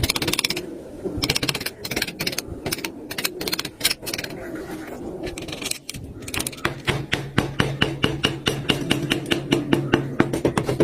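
Rapid, irregular clicking and tapping of hand tools working wood. About six seconds in it settles into an even run of about five clicks a second, with a steady low hum underneath.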